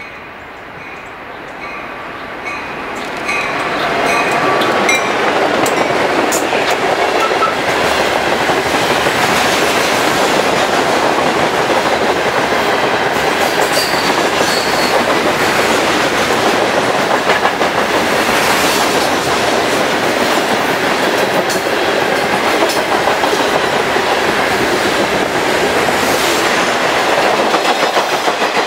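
Freight train passing close by: the diesel locomotives approach and the sound swells over the first few seconds, then a long string of loaded stone hopper cars rolls past with steady wheel-on-rail noise and clacking over the rail joints.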